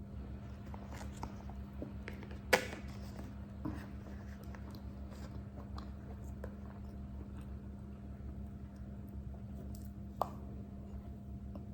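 A person chewing and biting food, with small wet mouth clicks, over a steady low hum. A sharp click about two and a half seconds in, and a smaller one near the end.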